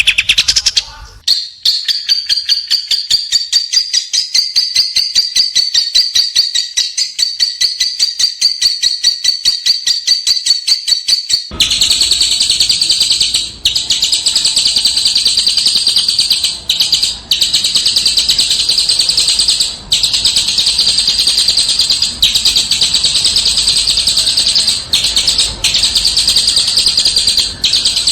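A small songbird singing a fast, dense, harsh trill of high repeated notes without letup, broken only by a few short pauses. About a third of the way in a background hiss comes up under the song.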